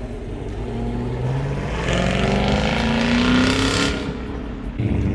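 A car accelerating hard as it pulls out, its engine note climbing in pitch for about three seconds and loudest shortly before it drops away near the end.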